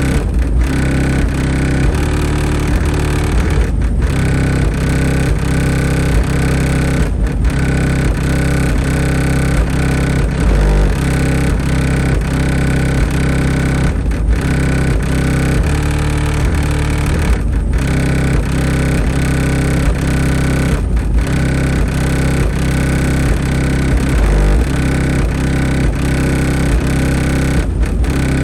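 Colossal Sounds JP23 car subwoofers playing loud, bass-heavy music for a sound test, deep bass notes changing in a repeating pattern with short breaks every three or four seconds.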